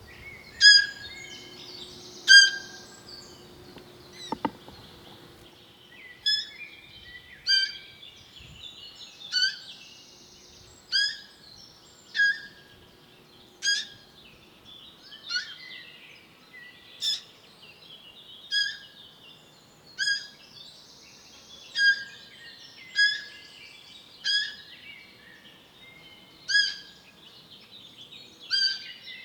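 A short, high-pitched call repeated about every one and a half seconds, over fainter bird chirping.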